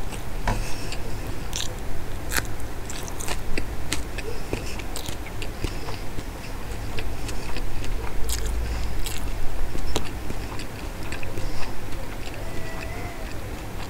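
Chewing a mouthful of rice and Bombay duck curry: irregular wet mouth clicks and lip smacks.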